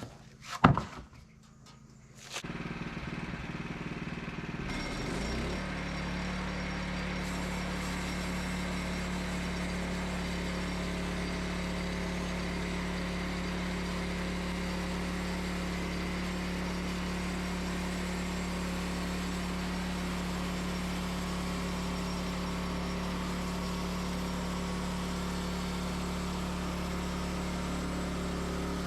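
A single sharp knock, then a small gasoline engine, most likely the Wood-Mizer LX25 sawmill's, starts about two seconds in and runs at a steady speed.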